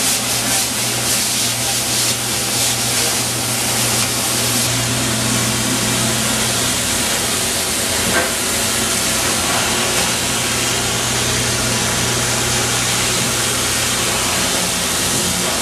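Tile-and-grout cleaning machine running with a steady, loud hiss over a constant low hum.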